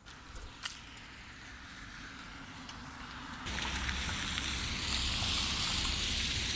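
Steady rush of fast-flowing water, which comes in suddenly and louder about halfway through. Before it come a few faint clicks.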